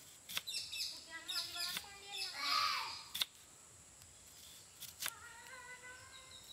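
Kitchen knife slicing a red onion into rings on a wooden chopping board: a few sharp taps as the blade meets the wood. Birds chirp around it, and a brief louder noisy burst comes near the middle.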